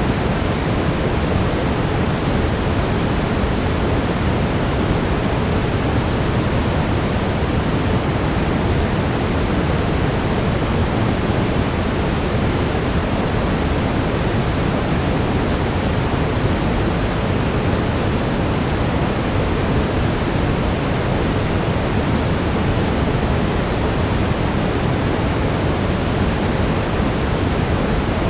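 Steady brown noise, a constant deep hiss heaviest in the low end, with a faint steady tone near 432 Hz under it.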